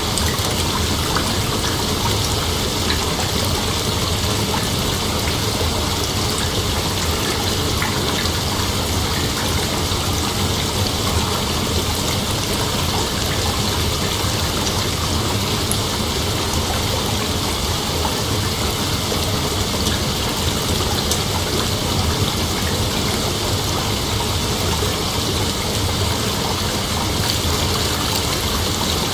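Continuous, even rush of water, steady in level throughout.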